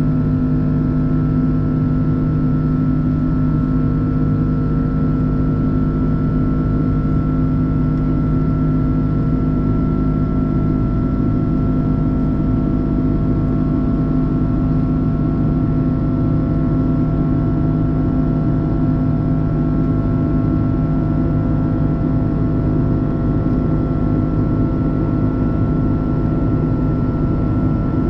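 Cabin noise of an Airbus A330-343 with its Rolls-Royce Trent 700 engines, heard from a window seat: a steady, loud engine drone with several held tones over a dense rush, unchanging throughout.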